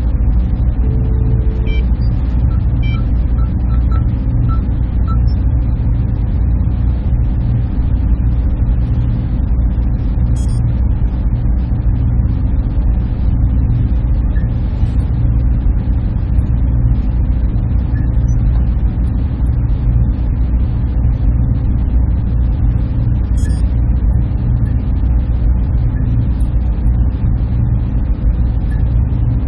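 Server room machinery running: a steady, even drone heavy in the low end, with a couple of faint ticks.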